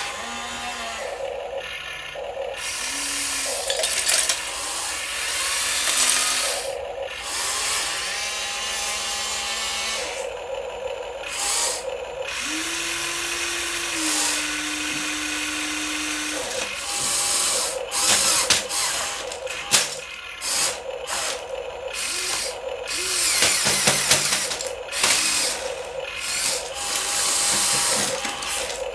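Small electric motors and plastic gearboxes of radio-controlled toy construction vehicles whirring and grinding in short stop-start runs, with a brief rising whine now and then.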